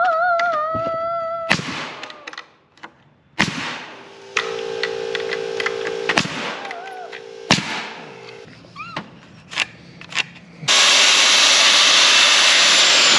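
Power-tool work on the coop build: several sharp knocks and a steady hum, then about three seconds of loud, steady cutting noise near the end.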